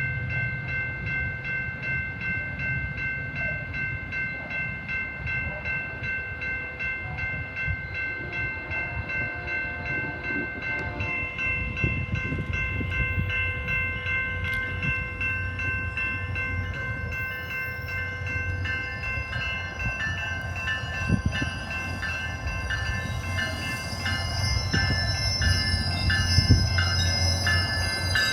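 A train passing, its rumble and wheel noise building from about ten seconds in, with wheels clacking over rail joints near the end. A warning bell rings steadily with an even repeating beat all the while.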